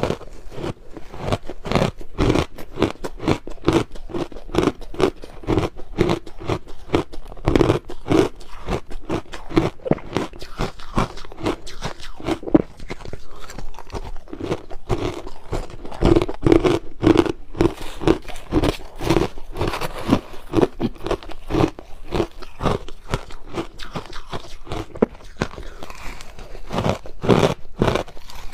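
Close-miked crunching of crushed ice being bitten and chewed, a rapid run of many short crisp crunches several times a second.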